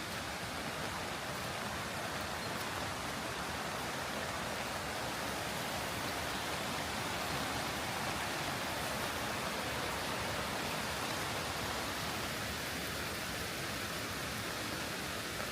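Steady rain falling, an even hiss that holds constant without a break.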